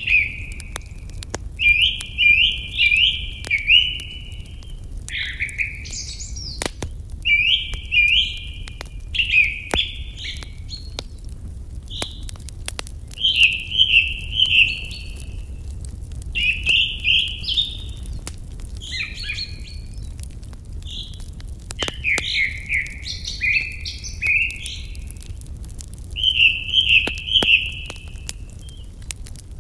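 A songbird singing short, trilled phrases over and over, a new phrase every second or two, over the sharp crackle and pop of a wood fire.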